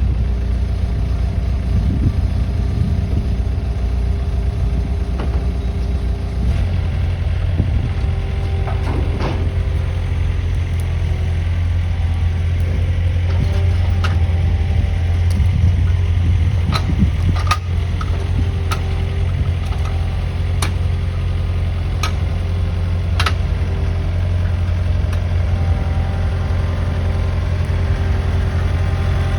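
1968 Chevrolet K20 pickup's engine running steadily at low speed while it moves the sawdust wagon, with scattered sharp clicks and knocks through the middle stretch.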